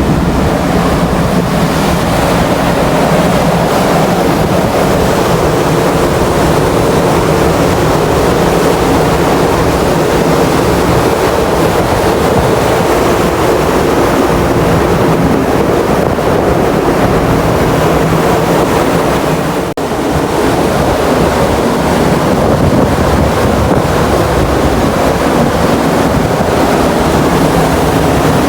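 Ferry under way: a steady low engine hum under rushing water and wind buffeting the microphone. The sound drops out briefly about twenty seconds in.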